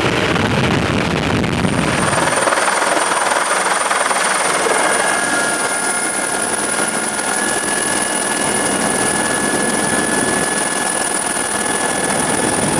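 Helicopter running: a steady rushing noise with a high, steady turbine whine that comes in about two seconds in and holds, joined by a few fainter steady tones.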